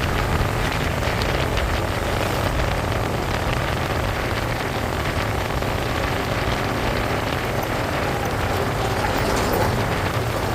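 Motorcycle riding steadily: a constant low engine and road rumble under a rushing hiss of wind over the microphone.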